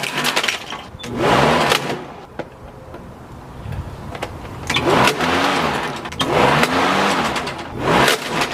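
Walk-behind lawnmower engine running in loud surges, its pitch dipping and recovering several times as the blade chews up a plastic electronic toy.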